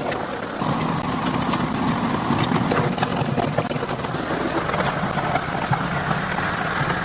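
Car engine running steadily, a continuous rumble that grows a little louder about half a second in.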